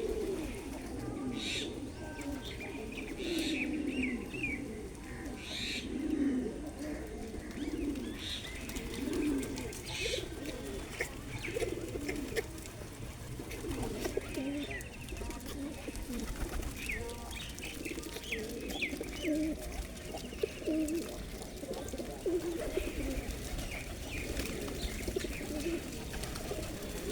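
A flock of pigeons cooing continuously, many calls overlapping, with short high chirps from small birds scattered over them.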